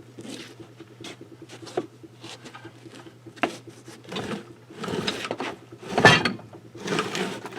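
Irregular knocks, clicks and scraping of hand work on metal and wood, with the loudest clatters around four, five, six and seven seconds in, over a steady low electrical hum.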